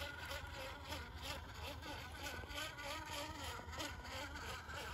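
Electric motor and gear drivetrain of a radio-controlled scale crawler truck whining as it crawls, the pitch wavering up and down with the throttle.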